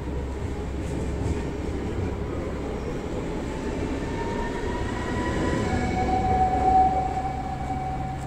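Train running by, its rumble growing louder toward a peak about seven seconds in, with a high steady whine.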